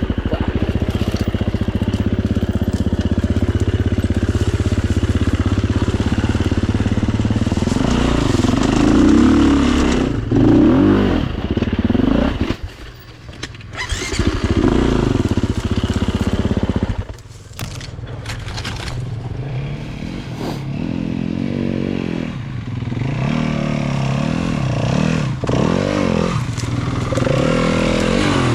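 Four-stroke single-cylinder dirt bike engines running under load. The revs rise and fall with the throttle and drop off briefly twice around the middle.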